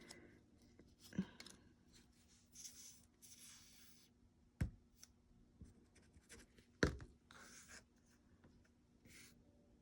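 Faint handling of paper: sheets sliding and rubbing in short stretches, with two sharp taps, one about four and a half seconds in and a louder one near seven seconds.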